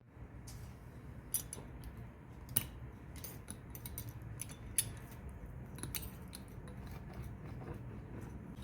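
Kitchen utensils and dishes clicking and clinking irregularly, with a few sharper clinks, over a low steady hum.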